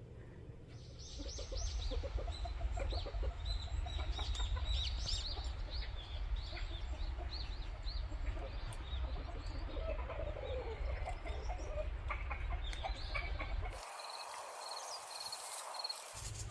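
Chickens clucking and calling, with many short quick calls one after another, over a low steady rumble that drops away near the end.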